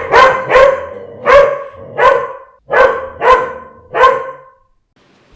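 A dog barking about eight times in short, loud barks, some in quick pairs, over about four seconds before stopping.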